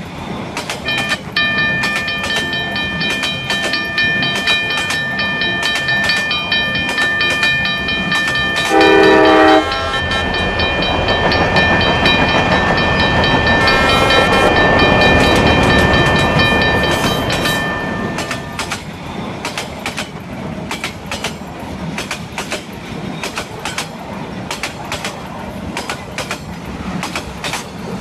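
Cartoon train sound effects: a steady clickety-clack of wheels over rail joints throughout. A level-crossing bell rings in quick repeated strokes until about two-thirds of the way through. A short train horn blast sounds about nine seconds in, and the rushing noise of a passing train swells after it and fades.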